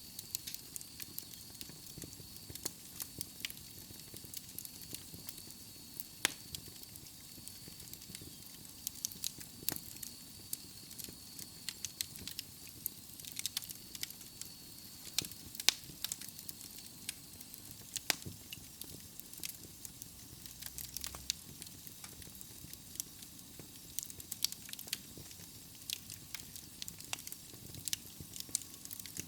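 Wood fire burning in a fireplace: irregular sharp crackles and pops over a soft steady hiss, with a faint high whine through the first half.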